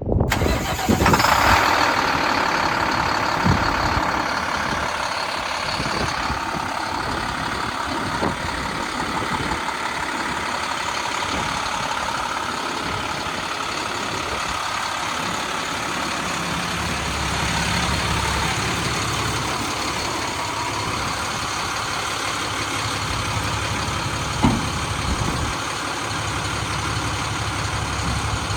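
International WorkStar dump truck's MaxxForce DT inline-six diesel starting about a second in, then idling steadily, with a few short knocks along the way.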